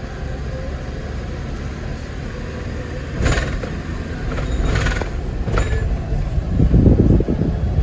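Hyundai Porter II light truck driving, heard from inside the cab: a steady low rumble of engine and road, with three short knocks a little past the middle and the rumble growing louder near the end.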